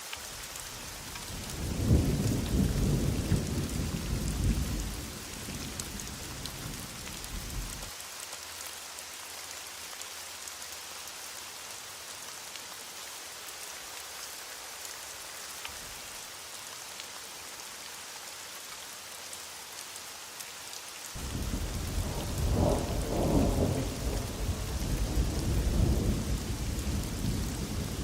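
Heavy rain falling steadily in a thunderstorm. Thunder rumbles twice, once from a couple of seconds in until about a third of the way through, and again starting about three quarters of the way in and running on.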